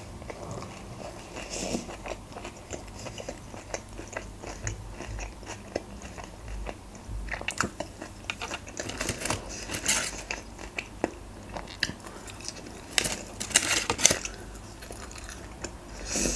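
A person chewing a mouthful of KFC Boxmaster tortilla wrap close to the microphone: irregular wet mouth clicks and crunching, louder around nine to ten seconds in and again around thirteen to fourteen seconds.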